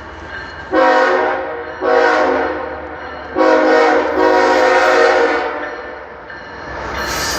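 Diesel locomotive air horn sounding a chord in four blasts, the last one the longest, over a steady low engine rumble.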